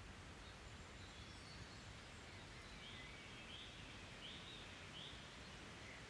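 Faint rural outdoor ambience: a steady low background hiss, with a bird giving a short call four times in a row in the middle, about three quarters of a second apart.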